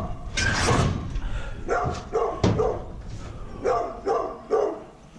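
A dog barking several times in short, separate barks spread through a few seconds.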